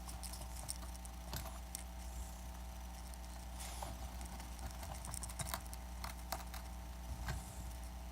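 A small hand tool scraping and tapping against the iPad Air 2's frame while leftover adhesive is cleaned off, in scattered light scratches and clicks over a steady low hum.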